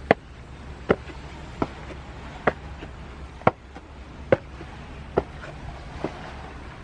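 A regular series of sharp taps on a hard surface, about one every 0.85 seconds, over a steady low background rumble.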